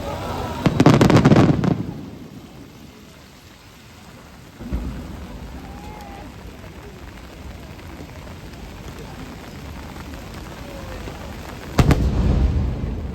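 Aerial firework shells bursting in rain: a loud boom with crackling about a second in, a softer boom near five seconds, and another loud boom near the end, over a steady hiss of heavy rain.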